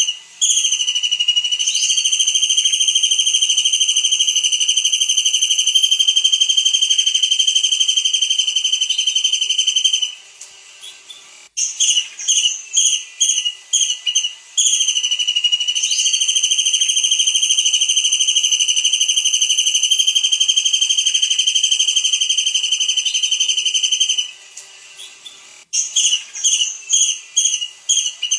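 Kingfisher (tengkek udang) calling: a run of short, sharp chirps that runs into a long, even, high-pitched trill lasting about nine seconds. The pattern repeats, with two long trills in all, and a new run of chirps comes near the end.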